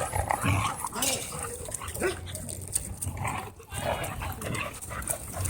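Dogs making short vocal sounds, with a brief high-pitched whine or yelp about three and a half seconds in, among scattered rustling and movement noises.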